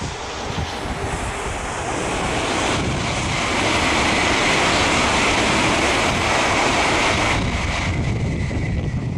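Freight train of Koki container flatcars rolling along the track, a steady low rumble of wheels on rail. A louder hissing rush swells up for about four seconds in the middle, then drops away suddenly.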